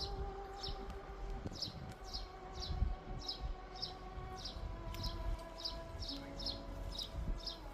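A small bird calling over and over, short high chirps about twice a second, over soft background music of long held notes.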